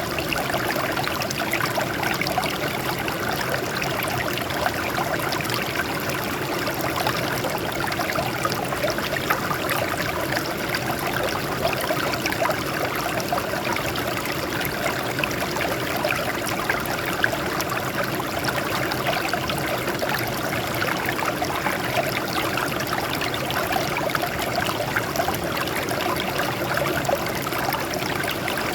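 Small stream of water flowing and trickling over rocks, a steady splashing babble.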